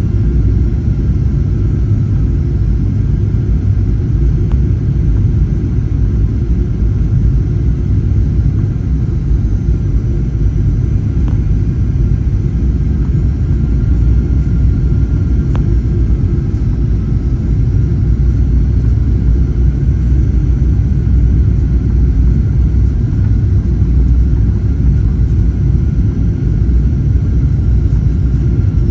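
Steady low rumble of Boeing 737-800 cabin noise: the jet engines and airframe heard from inside the cabin. A couple of faint clicks are heard partway through.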